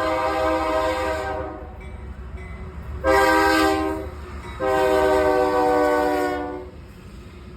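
Train horn sounding a chord in three blasts: the tail of a long one, a short one, then another long one, over the steady low rumble of the passing train.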